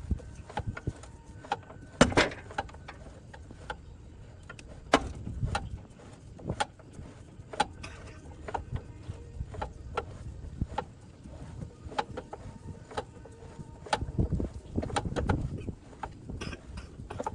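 Scattered, irregular knocks and clicks, with louder knocks about two and five seconds in and a low rumble a little before the end.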